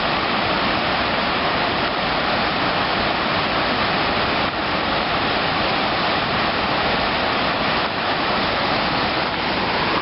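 Steady rush of water pouring over a river dam, an even roar with no breaks.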